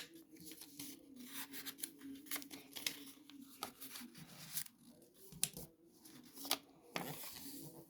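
A sheet of A4 paper being folded and creased by hand: soft crackles and rustles of the paper, with a longer rubbing sweep near the end.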